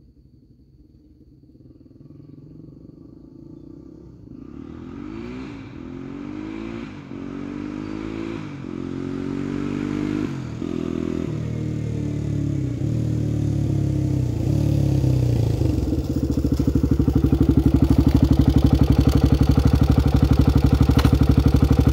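1986 Honda XR250R's single-cylinder four-stroke engine pulling through the gears, revs climbing and dropping back at each shift every second or two as the bike comes closer and louder. From about sixteen seconds in it settles into a steady, loud idle close by.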